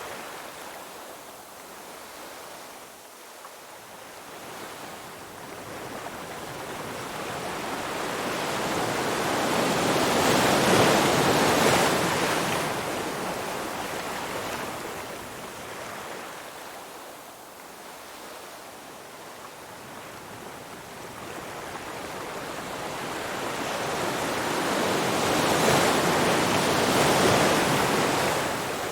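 Ocean waves washing in, a hiss of surf that slowly swells and fades, cresting twice, about 15 seconds apart.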